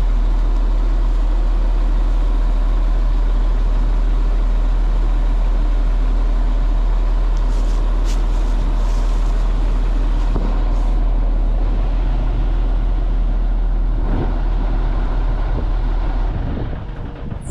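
A motor vehicle's engine running steadily at a constant speed with a low, even hum, dropping away near the end.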